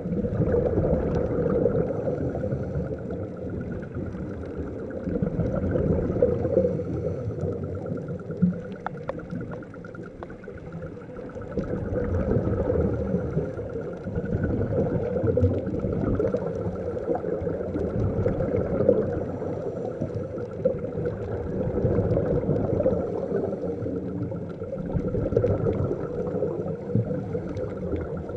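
Muffled underwater bubbling and rumble from a scuba dive, swelling and fading every few seconds like a diver's breathing and exhaled bubbles.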